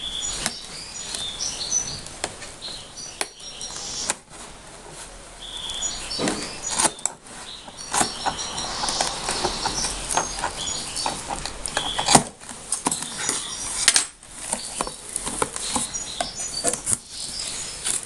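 Cardboard box and plastic packaging being opened and handled by hand: continuous rustling, crinkling and scraping with scattered taps and clicks.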